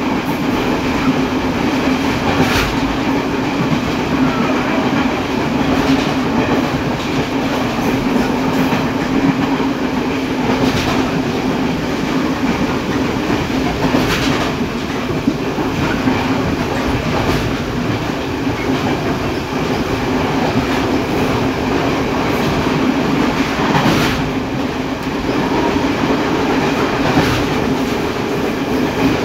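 Passenger train running along the line, heard from inside the guard's compartment at the rear: a steady rolling rumble with a constant low hum, and sharp clacks now and then as the wheels cross rail joints.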